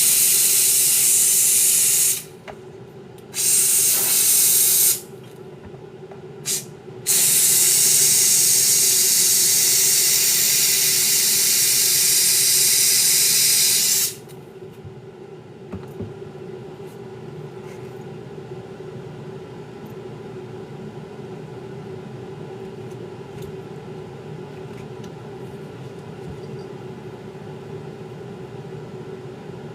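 Pressurised spray hissing in long bursts: one of about two seconds, another of almost two seconds, a brief puff, then a long spray of about seven seconds that cuts off abruptly. After that a steady low hum carries on.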